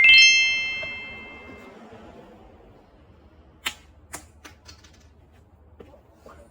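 A small bell or chime struck once, ringing clearly and fading away over about a second and a half. Afterwards, quiet room sound with a few light clicks.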